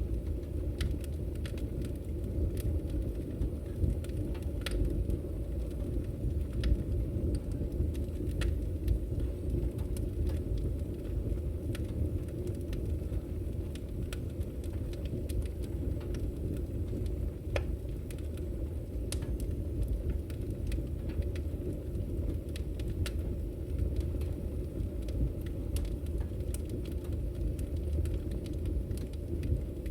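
Wood fire burning in a fireplace: a steady low rumble of the flames with scattered, irregular sharp crackles and pops from the burning firewood.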